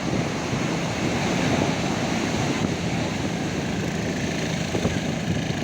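Steady rushing noise of wind and sea waves, with no breaks.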